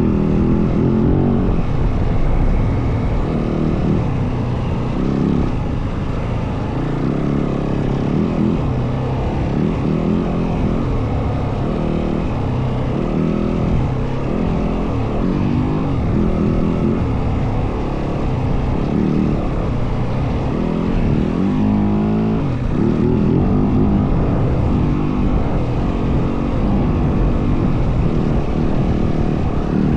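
Yamaha WR450F single-cylinder four-stroke dirt bike engine under way, its revs rising and falling with the throttle, with a quick climb in revs a little past the middle.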